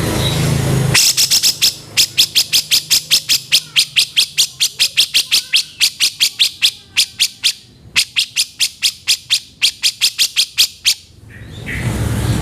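Cucak jenggot (grey-cheeked bulbul) giving a fast run of harsh, rasping chatter notes, about four or five a second, with a short break about two thirds of the way through. A rough, noisy sound with a low hum comes before the chatter and returns as it ends.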